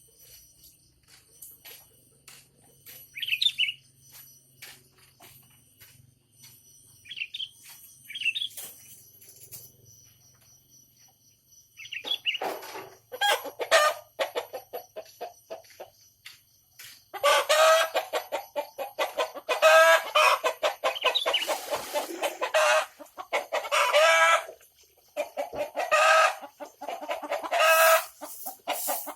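Bird calls: a few short, high chirps in the first half, then from about twelve seconds long runs of rapid, pulsing calls that grow loudest in the second half.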